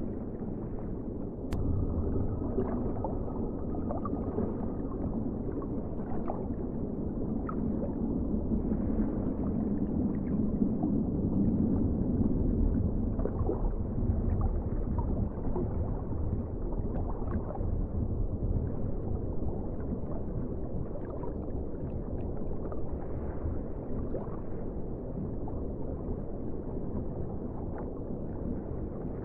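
Underwater ocean ambience: a steady, muffled low rumble of moving water with faint scattered bubbling clicks.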